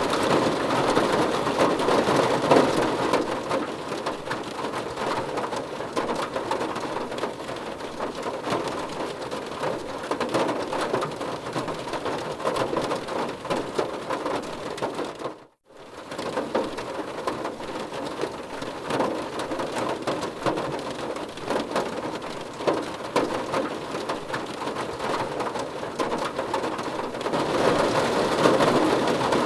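Heavy rain falling steadily, a dense even patter of drops. About halfway through it drops out to near silence for a moment, then resumes.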